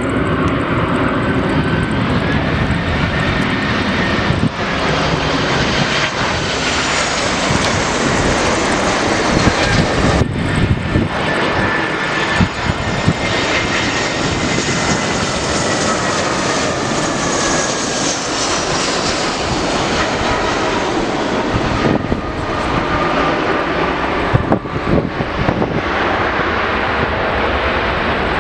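Jet aircraft engines running loud and close, a steady rush with whining tones that slowly fall in pitch as the plane passes.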